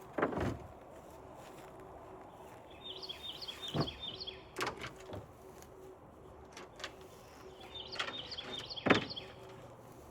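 A songbird sings two short phrases, each of about five quick repeated high notes, a few seconds apart. Several dull knocks and rustles come through, the loudest near the end.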